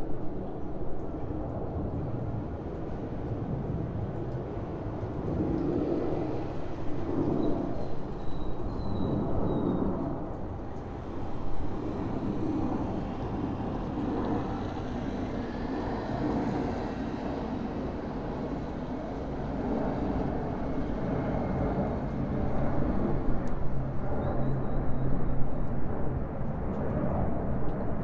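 Aircraft flying overhead, heard as a distant low rumble over the hum of the city. A steady low engine drone comes in about two-thirds of the way through and the sound grows louder near the end as the plane nears.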